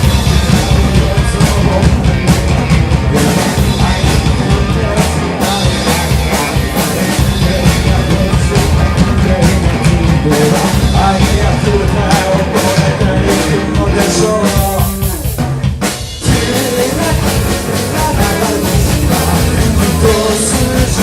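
Rock band playing, with a drum kit, electric guitar and bass, and a voice singing over it. About sixteen seconds in the band breaks off for a moment, then comes back in.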